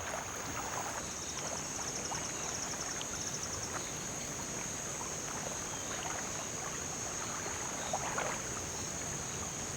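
Riverbank ambience: a steady high-pitched insect drone over a faint wash of water, with a rapid high ticking trill from about one to three and a half seconds in.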